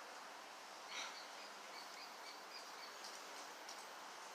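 Faint bird chirps over low outdoor background noise: a short chirp about a second in, then a quick run of small chirps.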